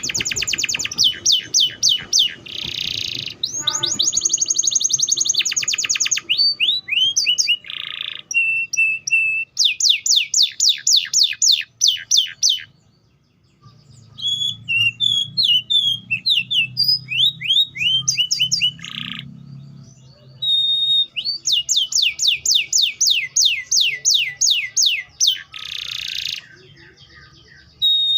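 Domestic canary singing: long rapid trills of repeated quick falling notes, broken by short pauses and a few buzzy and whistled notes.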